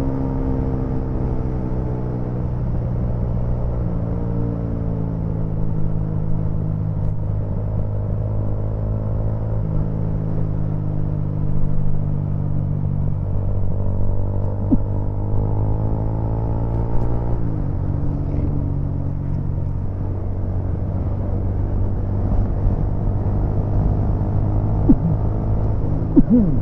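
Motorcycle engine running under way, its note climbing and dropping back several times through gear changes. A steady low wind rumble on the action camera's microphone runs underneath.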